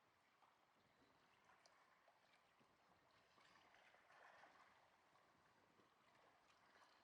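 Near silence: faint outdoor ambience, a soft hiss that swells a little midway, with a few small clicks.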